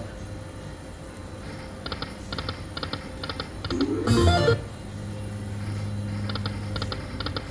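Poker machine game sounds: groups of quick electronic clicks, a short loud chiming jingle about four seconds in, then a steady electronic hum.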